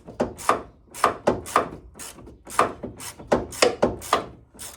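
Hand ratchet wrench being worked back and forth to undo a body screw, making a series of short rasping strokes at about three a second.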